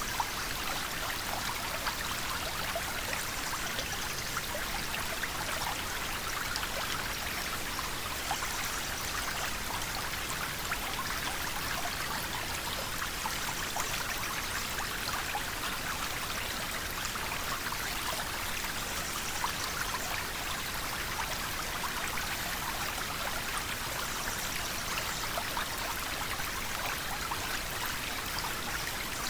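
River water flowing over stones, a steady rushing and babbling with many small splashes and no pauses.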